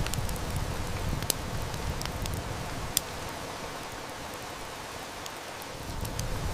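Steady heavy rain with a wood fire crackling, its sharp snaps scattered through, two of them louder about one and three seconds in. The low rumble under the rain thins out in the middle and comes back near the end.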